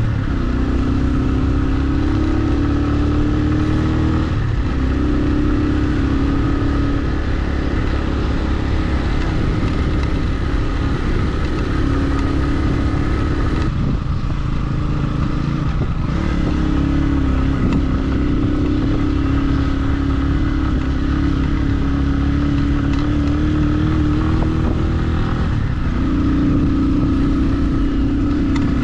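Motorcycle engine running steadily under way, its note dipping briefly a few times as the throttle changes.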